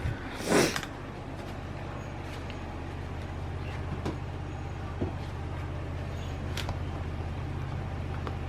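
Steady low hum of a vehicle, with a sudden loud whoosh falling in pitch about half a second in and a few faint clicks later.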